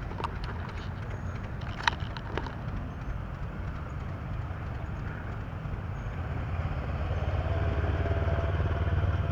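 A tractor engine running with a low, pulsing rumble that grows louder from about six seconds in as it comes closer. A sharp click about two seconds in.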